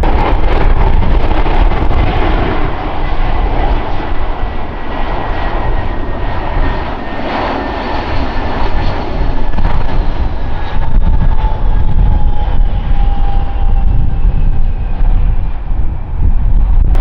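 Airliner's engines passing close during a take-off or landing: a loud, steady roar with a deep rumble, and whining engine tones that slide slowly down in pitch as the aircraft goes by.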